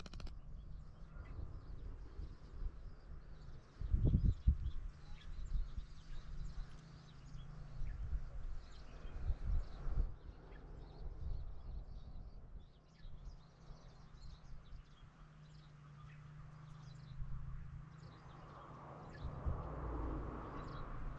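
Wind buffeting the microphone with a low rumble that swells in gusts, about four seconds in, about nine seconds in and near the end, while small birds chirp throughout.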